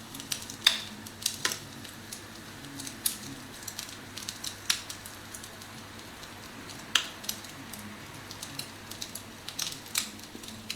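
Recorded wood-fire crackling played from a phone app through the phone's speaker: irregular sharp pops and snaps, a few louder ones standing out, over a steady low background.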